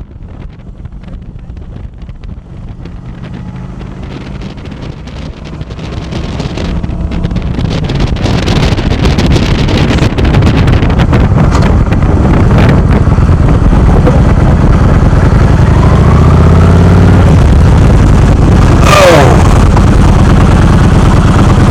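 Motorcycle engine running on the road with wind buffeting the microphone, growing steadily louder over the first half and then staying loud.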